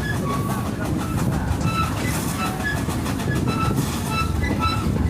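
Rumble and clatter of a heritage railway wagon's wheels running on the track, heard from on board. Short high-pitched tones recur through it.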